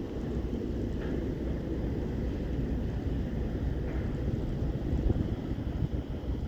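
Wind buffeting the microphone: a low, gusty rumble that swells about five seconds in.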